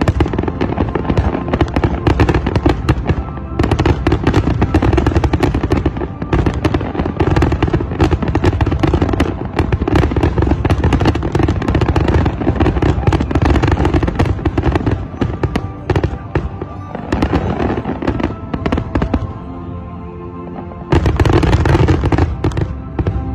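Fireworks display: aerial shells bursting in a dense, rapid string of bangs and crackles, with music playing underneath. The bangs ease off briefly near the end, then come back in a short loud flurry.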